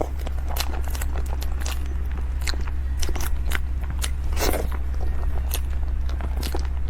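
Close-miked eating: scattered bites and chewing with sharp, irregular clicks, over a steady low hum.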